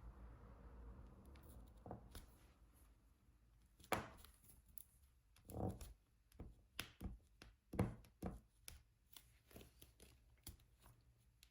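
Diamond painting pen picking up resin drills and pressing them onto the adhesive canvas: soft, irregular plastic taps and clicks, with a few louder knocks about 4, 6 and 8 seconds in.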